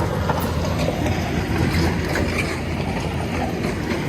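Heavy diesel machine engine running steadily at a low, even speed, with scattered light clicks and knocks.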